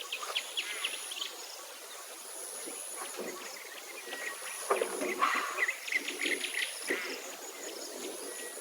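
Insects trilling in a high, thin tone that starts and stops every second or two, with birds chirping briefly and repeatedly over it.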